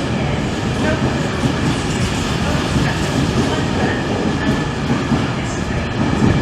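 A train running close by on the rails, a loud steady rumble of wheels and running gear.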